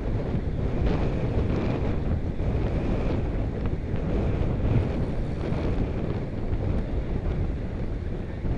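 Wind buffeting the microphone of a camera on a moving bicycle: a steady, low rumble of wind noise.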